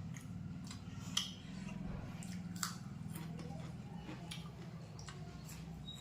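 Eating sounds: chewing and handling food, with scattered sharp clicks, the loudest about a second in and again about two and a half seconds in, over a steady low hum.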